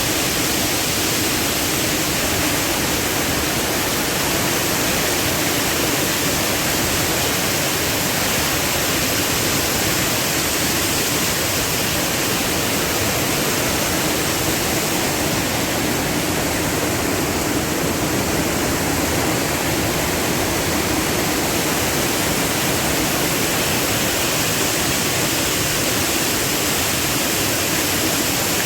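Mountain waterfall pouring, a loud, steady, unbroken rush of falling water.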